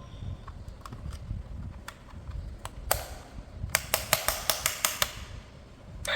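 Hard plastic clicking and tapping as an RC toy and its parts are handled, scattered at first, then a quick run of about eight sharp clicks in the second half.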